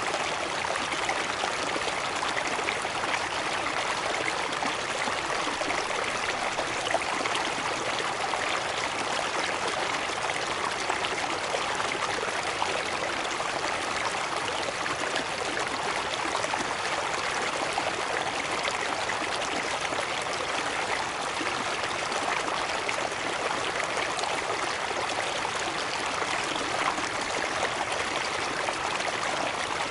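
Waterfall on a river: water pouring and rushing steadily, without a break.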